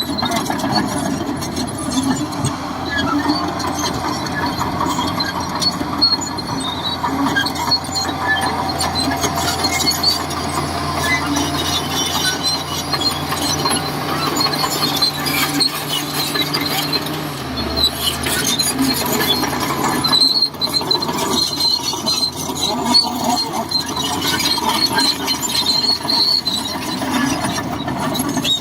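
Shantui DH17C2 crawler bulldozer working, its diesel engine running steadily under load with a high squeal from the steel tracks and undercarriage. The engine note drops a little past halfway.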